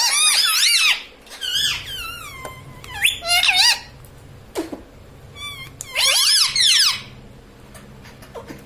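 Pet ring-necked parakeet giving high, squeaky calls and chatter in about four bursts, its pitch swooping up and down.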